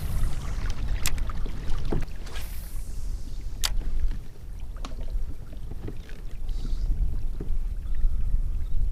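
Fishing kayak on open water: a steady low rumble with a few sharp clicks and knocks against the hull or gear.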